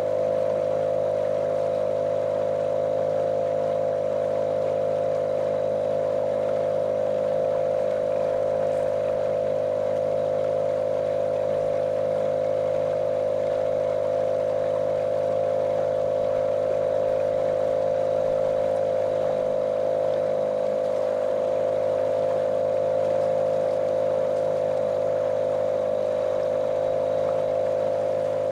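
Small motorboat's outboard motor running at a steady cruising speed, with a constant droning hum that holds one pitch throughout, over the rush of water along the hull.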